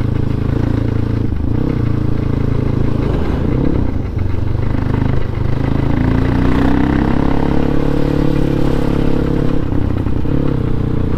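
Crossfire RM250 dirt bike's engine running loud while riding, its pitch rising about six seconds in as it speeds up, then holding steady. The exhaust is very loud, which the rider puts down to its dB killer having been removed or a different silencer being fitted.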